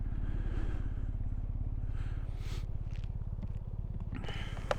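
Motorcycle engine idling steadily with an even low pulse. There is a short knock near the end.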